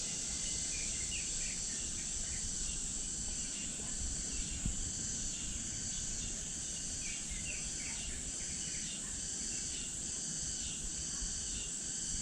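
A steady, high-pitched chorus of summer insects, with scattered short bird chirps over it.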